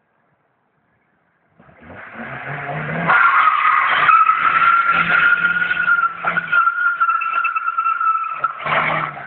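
Volkswagen Golf IV's tyres squealing in one long skid: the sound builds for about a second and a half, then holds a loud, steady high squeal for about six seconds and cuts off suddenly near the end.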